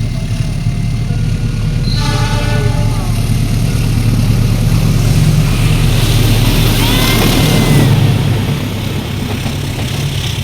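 Diesel locomotive of an approaching passenger train running with a heavy, steady low engine drone that grows louder and peaks a few seconds before the end. A short multi-tone horn sounds about two seconds in.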